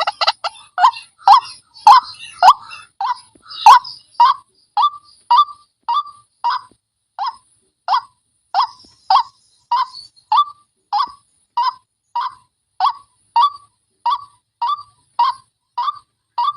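White-breasted waterhen calling: a long series of short, repeated 'wak' notes at nearly two a second, crowded and overlapping in the first few seconds, then evenly spaced.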